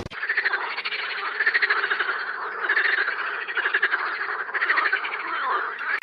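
A chorus of frogs croaking: many fast, rattling pulsed calls overlapping, swelling and easing in waves.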